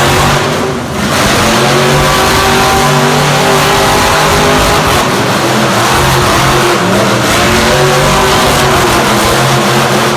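Loud engine running hard, its pitch wavering up and down as the throttle is worked, over a continuous noisy roar.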